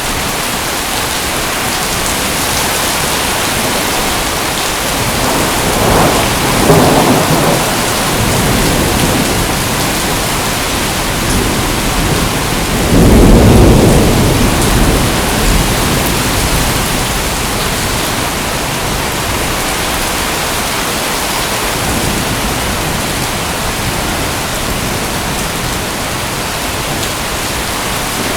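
Steady heavy rain with rolling thunder: two low rumbles swell up, one about six seconds in and a louder one about thirteen seconds in, and another begins to build near the end.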